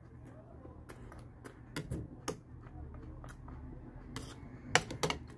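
Close-up chewing of crunchy Pumpkin Spice Cheerios, with a metal spoon clicking against a plastic bowl as it scoops up more; the sharpest clicks come near the end.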